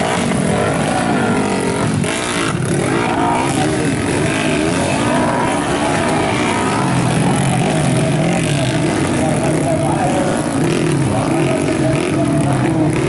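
Engines of several modified underbone motorcycles revving at once, their pitches rising and falling and overlapping.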